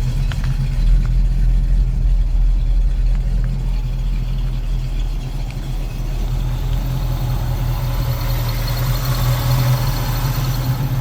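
A 1965 Ford Mustang's 289 V8 idling steadily, a low even hum.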